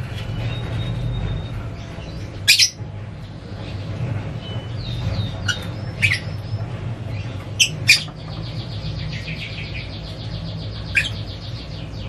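Small birds chirping: scattered short, sharp high calls, then a fast run of repeated high chirps in the last few seconds, over a steady low hum.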